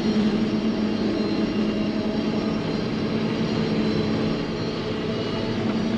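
John Deere self-propelled forage harvester running steadily while it chops corn, heard from inside its cab: a constant low engine and machinery drone with a steady hum.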